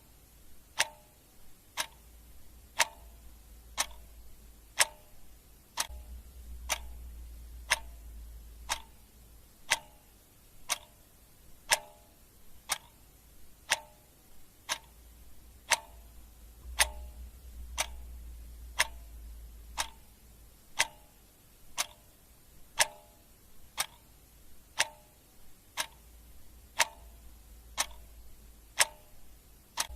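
Clock ticking steadily about once a second, the ticks alternating louder and softer in a tick-tock pattern, over a faint low rumble.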